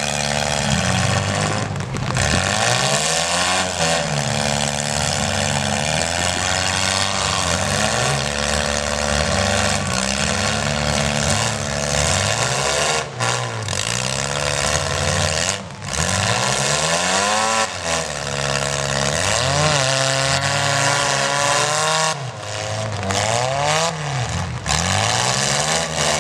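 Engines of wrecked compact demolition derby cars revving over and over. Their pitch climbs and drops every second or two, with several engines running at once.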